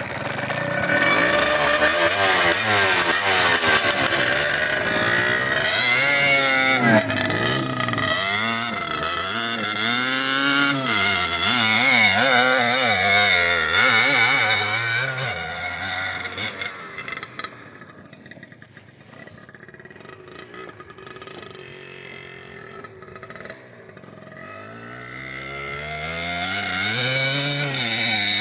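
Motorcycle engine pulling up through the revs again and again as it changes gear on the move. It eases off to a quieter, lower-revving run about two-thirds of the way through, then climbs again near the end.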